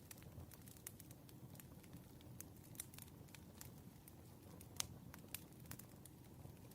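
Faint campfire crackling: a steady low rumble of burning wood with scattered sharp pops and snaps, the loudest about five seconds in.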